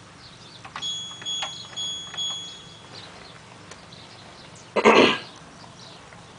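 Washing machine control panel beeping, a run of short high beeps with small button clicks as programmes and options are selected. About five seconds in, a person coughs once, the loudest sound.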